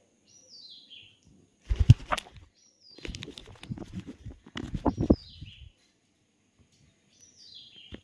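A bird's short call, falling in steps, repeated about every two seconds, with louder rustling and bumps in between as the phone is handled close to the parakeet.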